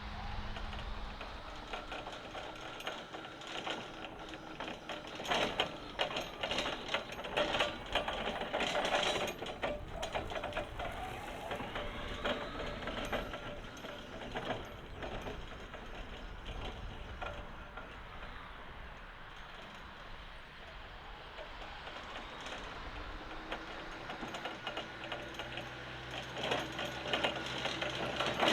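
Jungheinrich EFG 216k electric forklift working: steady mechanical rattling and clicking, with a faint electric motor whine that rises and falls.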